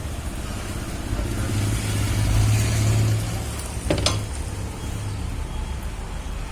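An engine running steadily with a low hum that swells for a second or two near the middle, and a couple of sharp metallic clicks about four seconds in.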